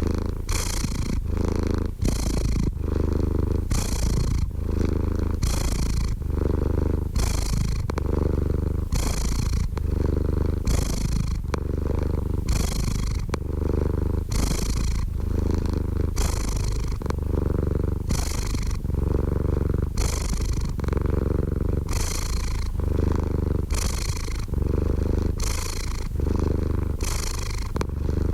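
Domestic cat purring steadily: a continuous low rumble with a breathy rise and fall about once a second as the cat breathes in and out.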